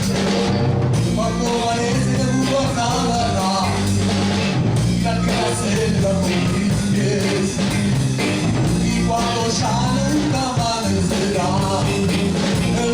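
Blues band playing at a steady level: a stepping bass line and drums under a bending lead melody, in a blues tune built around harmonica.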